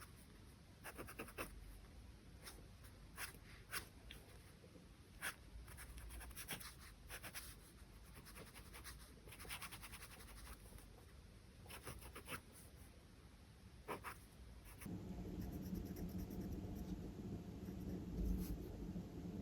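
Charcoal pencil scratching on drawing paper in short, irregular strokes; about fifteen seconds in it changes to a steadier, continuous scratching.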